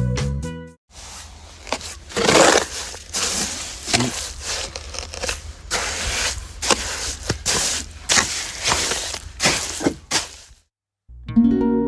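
Irregular scraping and clattering with many sharp knocks over a low steady hum, cutting off abruptly near the end. Background music ends just before it starts and comes back just after it stops.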